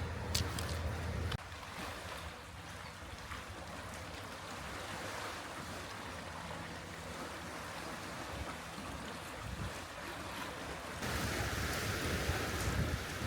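Sea waves washing on a cove shore, with wind on the microphone. A low steady hum stops abruptly about a second and a half in, and the wash grows louder near the end.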